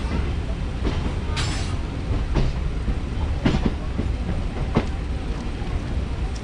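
Electric multiple unit (EMU) suburban train running at speed, heard from an open doorway: a steady low rumble with a few irregular sharp clacks as the wheels cross rail joints and points.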